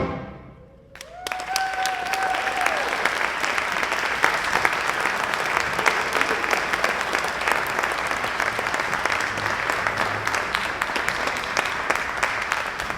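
Audience applauding and cheering after the band's final chord dies away. About a second in, one long held whoop rises over the clapping, which stays steady.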